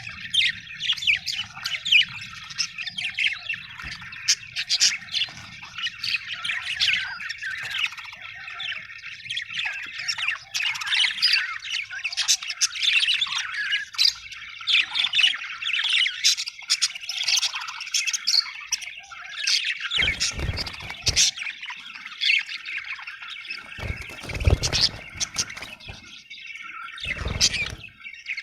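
Budgerigars chirping, warbling and squawking continuously in a dense, overlapping chatter. A few short low rumbling bursts break in during the last third.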